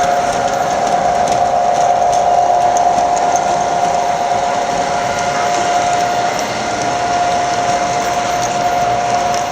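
Model train running along the layout track: a steady electric motor whine over the continuous rolling of wheels on rail.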